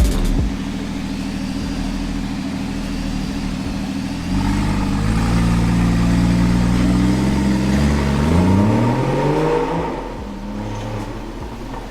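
Porsche Cayman 981 flat-six engine through an iPE Innotech cat-back valved exhaust. It runs steadily, gets louder about four seconds in, climbs slowly in pitch, then revs up sharply and falls back to a lower, quieter note near the end.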